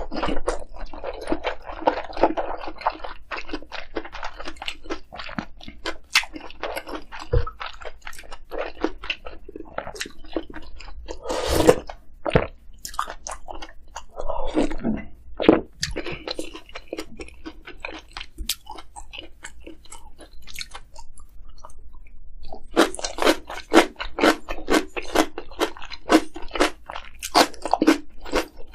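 Close-up chewing of dumpling soup and kimchi, a steady run of quick, wet, clicky chewing strokes. A couple of louder bites come near the middle, and a denser run of fast strokes comes near the end.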